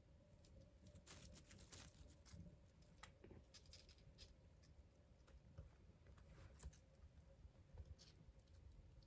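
Faint scattered light taps and brief rustles of a kitten moving about and playing, over low room hum.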